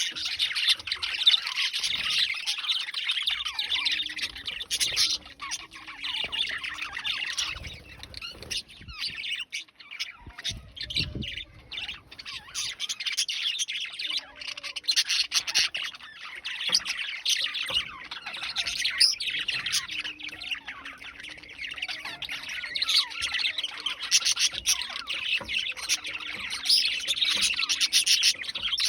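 A flock of cockatiels chirping and squawking nonstop, many calls overlapping.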